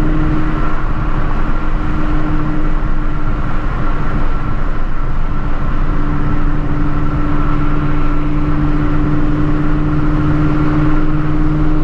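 Procharged Shelby GT350's 5.2-litre flat-plane-crank V8 cruising at a steady speed, a constant engine drone over road noise. The engine tone drops back briefly about four seconds in and returns about two seconds later.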